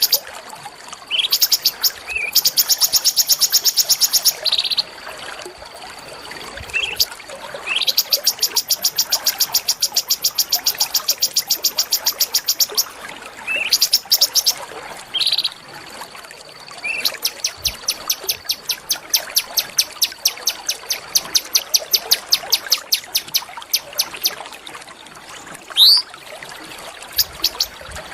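A small songbird singing, phrase after phrase: each begins with a short rising note and runs into a fast trill of high, clipped notes lasting from under a second to about five seconds. A faint steady high tone is heard in the pauses between phrases.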